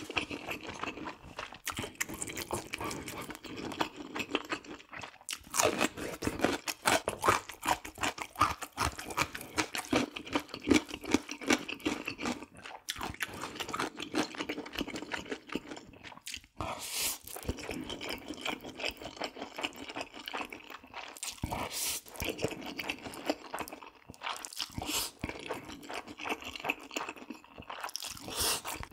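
A person eating close to the microphone: repeated crunchy bites and steady chewing, with a few louder bites along the way.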